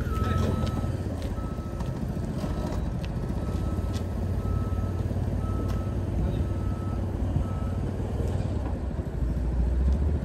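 Vehicle backup alarm beeping at a steady pace of about one and a half beeps a second, stopping about eight seconds in, over a low idling engine.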